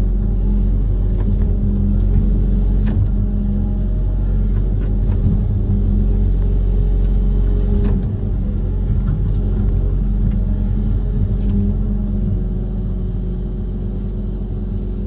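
Diesel engine of a Kobelco SK130 amphibious excavator running steadily with a constant low hum, with a few light knocks; the level drops a little about eight seconds in.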